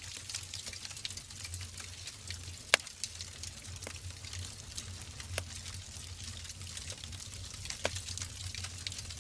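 Logs burning in a wood fireplace: a dense, steady crackle with scattered sharp pops and snaps, the loudest a little under three seconds in, over a low rumble of the flames.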